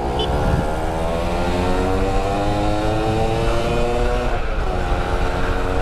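Yamaha F1ZR's two-stroke single-cylinder engine at full throttle while riding, its pitch climbing steadily as it accelerates. Near the end there is a short dip in pitch, like a gear change, and then it climbs again.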